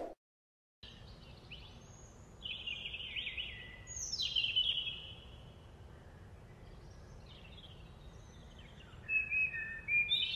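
Birds singing over a steady background hiss, starting about a second in. Quick chirps and short falling trills come in bunches, loudest around the middle and again near the end.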